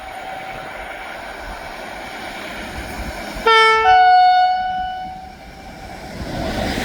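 Train horn sounding two notes about halfway through, a lower note followed by an overlapping higher one, for about a second and a half. It sounds over a steady rail rumble that grows louder near the end as the train draws nearer.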